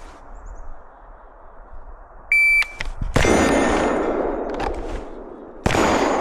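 Shot timer beeps once, then about a second later a rifle fires one shot, and about two and a half seconds after that a pistol fires one shot: a rifle-to-pistol transition drill. Each shot is followed by a long echo.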